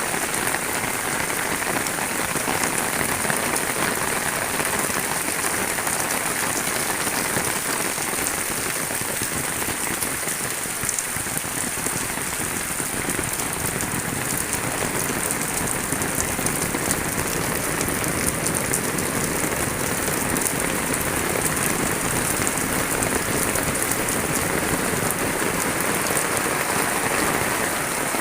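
Steady rain falling: a dense, even hiss with the patter of many drops, unchanging throughout.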